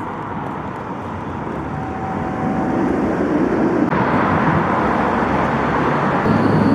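Steady vehicle or traffic rumble that grows louder about two seconds in, with a faint high whine near the end.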